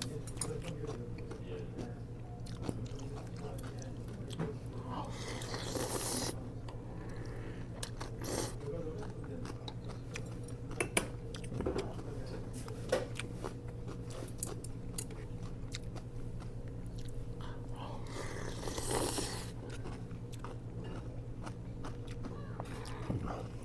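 A person eating: chewing and biting, with sharp clicks and knocks of utensils against bowls, over a steady low hum. Two longer noisy sounds come about five seconds in and again near nineteen seconds.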